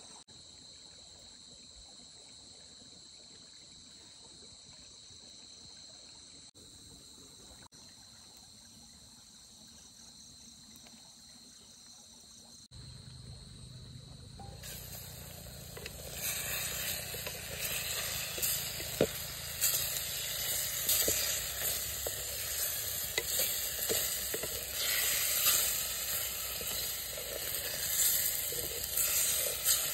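Insects trilling steadily in a few unbroken high tones for the first dozen seconds. Then the sound changes abruptly to food frying: a loud, even sizzle with frequent crackles and pops from about fifteen seconds in.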